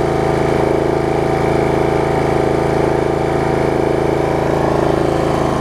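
Snapper rear-engine riding mower's engine running steadily at full throttle, its carburetor freshly cleaned. It runs smoothly and evenly, with no surging.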